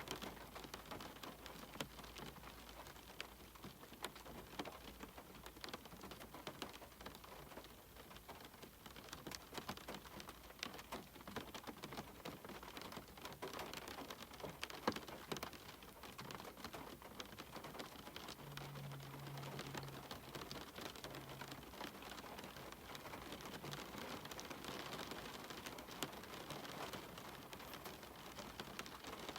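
Steady rain falling, with many separate drops tapping sharply against a surface on top of a constant hiss.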